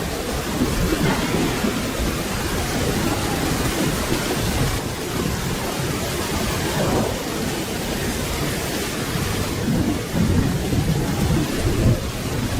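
Steady rain falling, with low rolling thunder rumbling under it that swells about ten seconds in.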